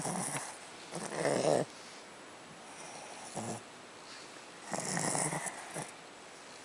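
A Chihuahua making short funny noises in about five bursts as someone tries to take her bone: the grumbling sounds of a small dog guarding it.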